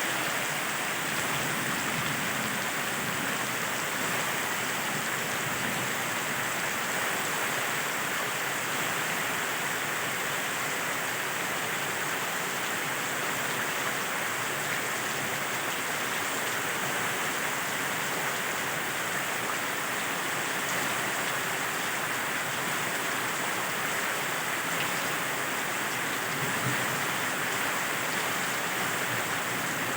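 Heavy rain falling steadily, an even downpour without thunder.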